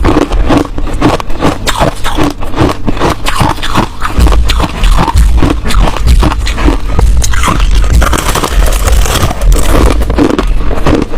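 Close-miked chewing of hard ice: a rapid, continuous run of loud crunches and crackles as the ice breaks between the teeth.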